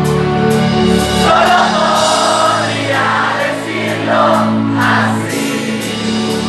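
A band playing live with a steady beat, ticking about twice a second, and a mass of voices singing through the middle of the passage.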